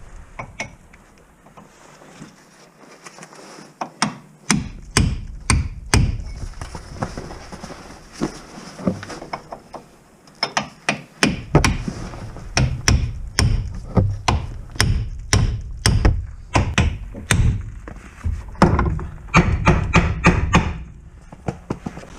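Repeated hammer blows on metal: a few scattered knocks, then a steady run of about two strikes a second, then a quicker flurry near the end.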